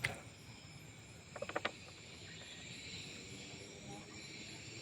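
Night-time insect chorus of crickets and other insects: a steady high trilling and pulsing. About a second and a half in there is a short burst of rapid clicks.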